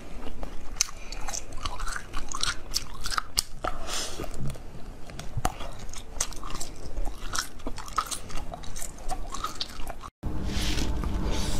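Close-miked chewing of a frozen jelly cube: a run of irregular crisp crunches and crackles as the icy jelly is bitten and broken. Near the end the sound drops out for an instant, and a denser, steadier crunching follows.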